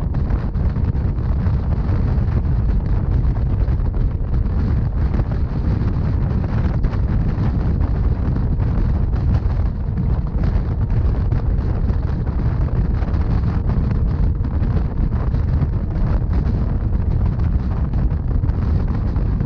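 Rhaetian Railway narrow-gauge passenger train running, a steady low rumble from the moving train with wind buffeting the microphone and faint scattered clicks.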